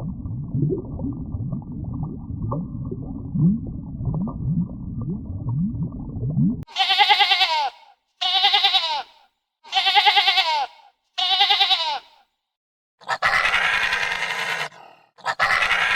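Animal calls. For the first seven seconds there is a muffled run of short, low calls that each rise in pitch. Then come four separate calls of about a second each, each falling in pitch at its end, followed by two longer, harsher calls.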